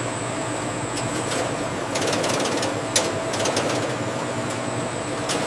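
Steady hum of food-processing machinery, with scattered sharp clicks and ticks and a thin high whine.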